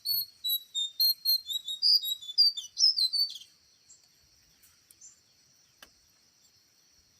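A small bird chirping a quick series of short, high chirps, about three a second, for the first three and a half seconds. A steady high insect-like hum runs under it and on through the rest, with a single sharp click a little after the middle.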